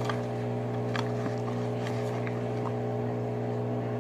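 A steady low mechanical hum, with a few faint soft clicks about a second in and a little after two seconds.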